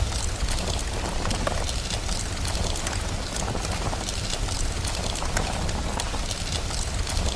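Steady rain mixed with a crackling fire: a dense hiss sprinkled with many small pops and snaps, over a constant low rumble.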